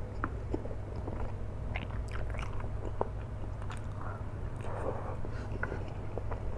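A person chewing a mouthful of flat rice noodles close to the microphone: scattered wet mouth clicks and smacks over a steady low hum.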